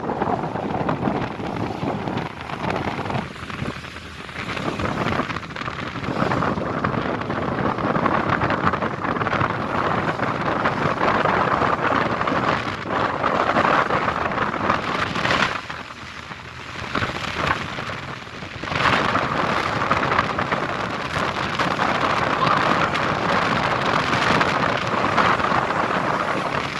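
Strong wind buffeting the microphone in gusts over rushing water, easing briefly a few seconds in and again about two-thirds of the way through.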